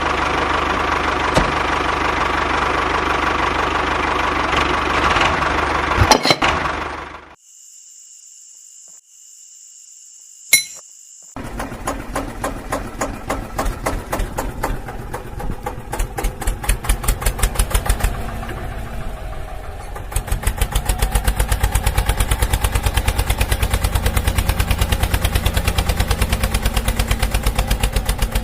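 Mini diesel engine of a DIY flour mill chugging into life: slow, uneven pulses that quicken, then a steady fast putting from about twenty seconds in. Before that, a loud dense stretch of sound cuts off about seven seconds in, followed by a quiet gap with a single click.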